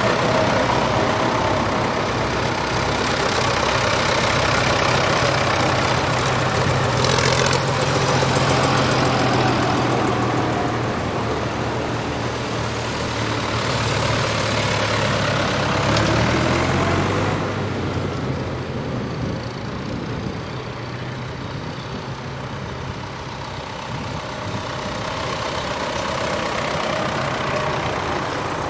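Tractor engines running as tractors drive past. One engine's note drops and fades about two-thirds of the way through, and another draws closer near the end.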